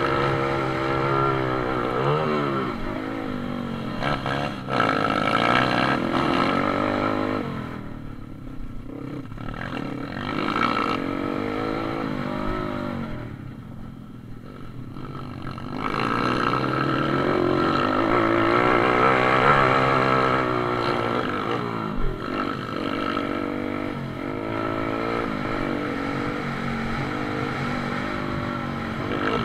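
Pit bike engine running hard through a race, its pitch climbing under throttle and falling back again and again. It goes quieter twice, about a third of the way in and again around the middle, as the throttle is closed.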